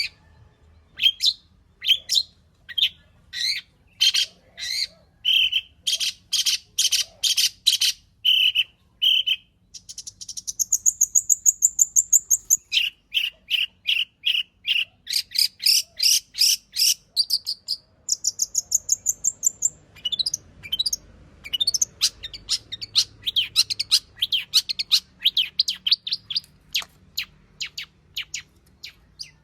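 Long-tailed shrike (cendet) singing a fast, varied medley of mimicked phrases. It changes phrase every few seconds, moving from runs of sharp repeated notes to high rapid trills and then a long series of quick downward-sweeping notes.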